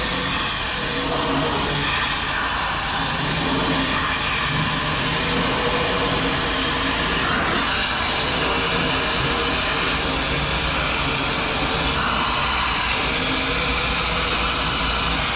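Cutting torch running with a steady roaring hiss as it cuts through scrap metal.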